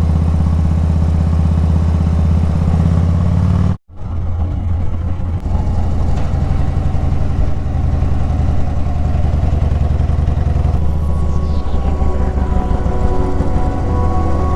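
Harley-Davidson motorcycle's V-twin engine running steadily at cruising speed, cutting out abruptly for an instant about four seconds in.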